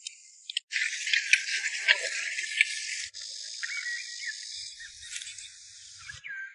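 Insects chirring in a dense, high, steady chorus. The chorus changes abruptly a few times.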